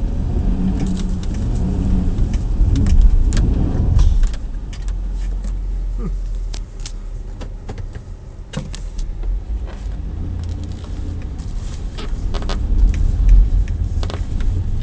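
Chevrolet Tahoe driving through a deep snow drift: a heavy low engine and tyre rumble for about the first four seconds, then settling to a steadier, quieter low hum. Scattered clicks and knocks run through it.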